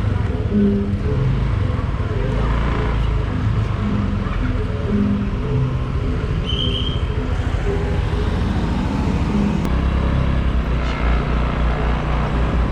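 A motor vehicle running: a steady low rumble that grows heavier near the end.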